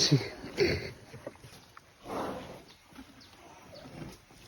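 Elephant blowing air out through its trunk at close range: a breathy rush at the start and another about two seconds in.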